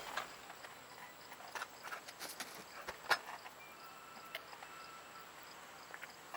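Wood fire crackling in a campfire pit: faint, irregular pops and snaps, with one sharper pop about three seconds in.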